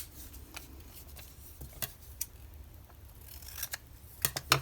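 Scissors snipping magazine paper: a few short, sharp, separate snips spread out, with the two loudest close together near the end.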